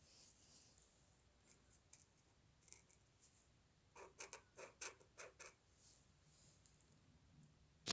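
Faint scratching of a drawing tool on paper: scattered light strokes, then a quick run of about eight short strokes around the middle, and a sharp click right at the end.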